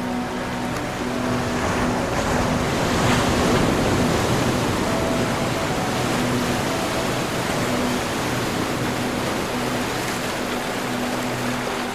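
Ocean waves breaking and washing in a steady surge, one wave swelling to its loudest about three to four seconds in. Soft low held music notes sit faintly beneath the surf.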